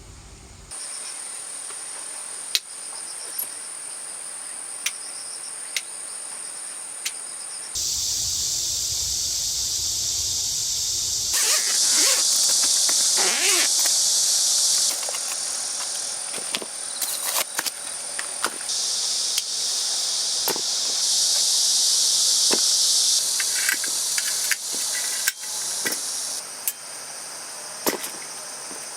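Insects chirring in a steady high-pitched chorus, which jumps abruptly louder and softer several times, with scattered sharp clicks and a low rumble for a few seconds near the middle.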